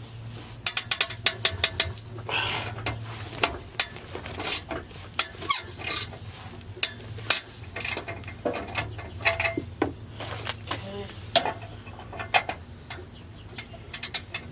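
Ratchet wrench clicking in quick runs of strokes, with scattered metallic clinks, as the clamp holding an exhaust tip is tightened.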